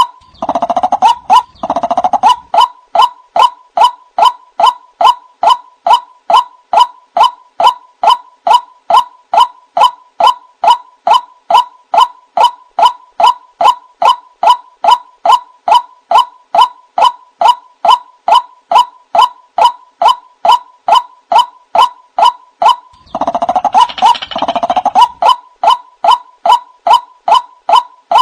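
White-breasted waterhen (ruak-ruak) calling: a monotonous series of short notes, about two a second. It breaks twice into a denser, harsher burst of calling, at the start and again about 23 seconds in. This is the call the bird uses to summon others of its kind, played back as a lure.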